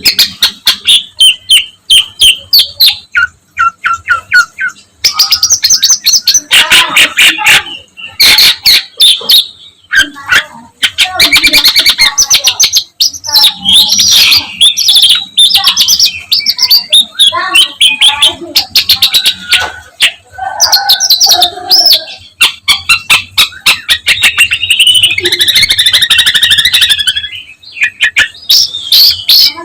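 Long-tailed shrike (condet/pentet) singing loudly in a fast, varied jumble of chattering phrases, trills and harsh notes, full of mimicked calls of other birds. It breaks off briefly twice.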